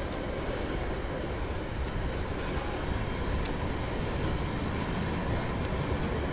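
Freight train's steel hopper wagons rolling past close by: a steady rumble of wheels on rail, with a few sharp clicks.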